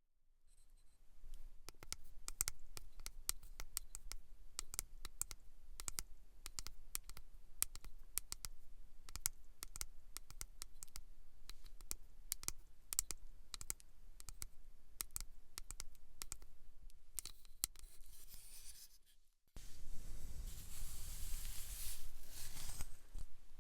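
Close-miked scratching on a head during scalp-care ASMR: a long run of small, sharp crackles and clicks. After a short break near the end it turns into a denser, louder rubbing and brushing sound.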